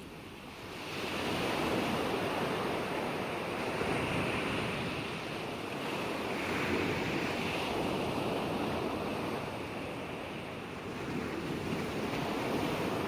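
Ocean waves washing onto a shore, a steady rush of surf that swells about a second in and rises and falls a few times as waves break and draw back.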